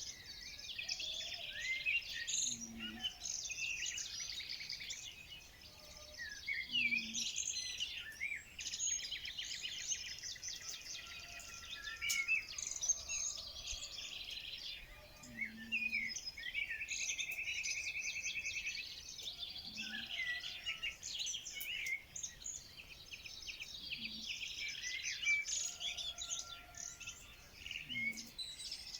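Several birds singing and calling at once: overlapping chirps, whistles and rapid trills, with a short low call every few seconds underneath.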